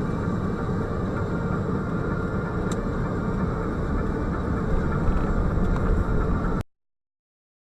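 Steady low rumble of a moving car's engine and road noise, as picked up by a dash-cam microphone inside the cabin, with one faint click partway through; it cuts off suddenly near the end.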